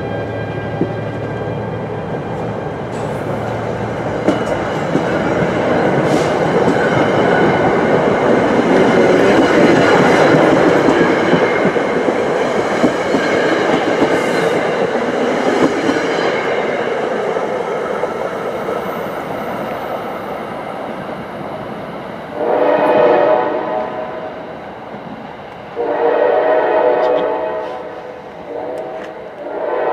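NJ Transit commuter train's passenger cars rushing past at speed, the wheel and rail noise swelling to a peak about a third of the way in, then fading as the train pulls away. Over the last third the train's horn sounds long, long, short, long: the grade-crossing signal.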